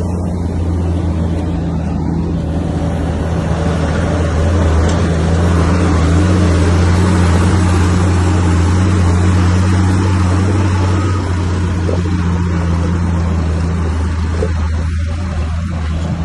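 Komatsu bulldozer's diesel engine running steadily with a low hum. A broad mechanical noise swells through the middle and eases toward the end.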